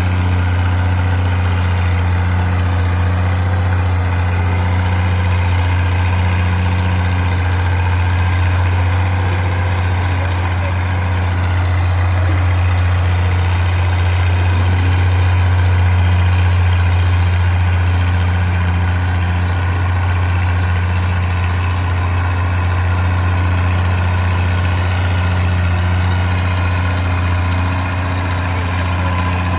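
Oliver 880 tractor's six-cylinder engine running at a steady, even speed, a deep hum that swells slightly about halfway through.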